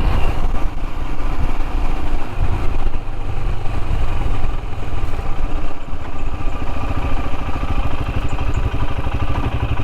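Royal Enfield Himalayan's single-cylinder engine running under way, a steady rapid low thumping that eases off briefly a couple of times.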